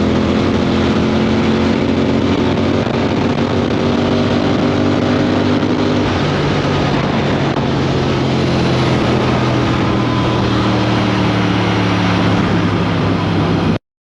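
Triumph Speed 400's single-cylinder engine running hard at highway speed, with wind rushing over the microphone. The engine note drops lower about six seconds in. The sound cuts off abruptly near the end.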